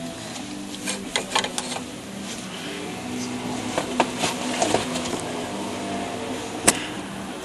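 Scattered sharp clicks and clinks of hand tools and metal engine parts being handled, the loudest near the end, over a steady low hum.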